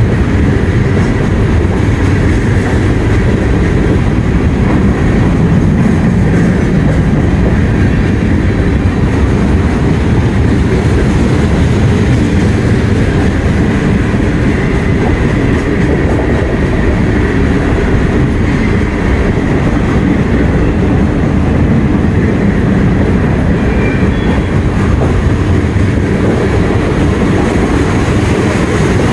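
CSX freight train's tank cars and covered hopper cars rolling past close by: a loud, steady rumble of steel wheels on the rails.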